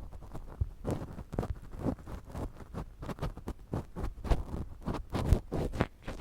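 Ear pick scraping and tapping in ASMR ear cleaning: an irregular run of rough scratches and clicks, a little loud rather than soft.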